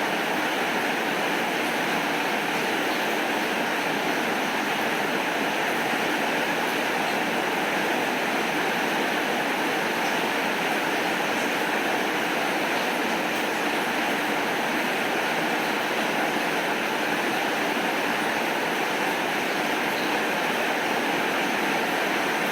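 Heavy rain falling steadily: a dense, even hiss with no breaks or thunderclaps.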